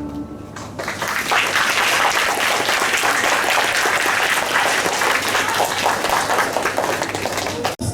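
An assembly audience clapping at the end of a sung performance, a dense applause that starts about a second in and cuts off suddenly near the end.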